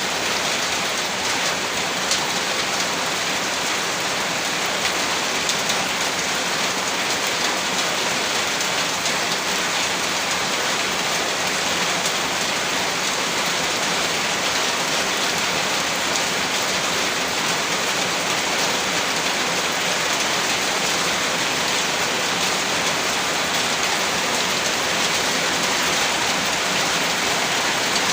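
Heavy rain falling steadily, a dense even hiss of drops with no breaks or distinct impacts.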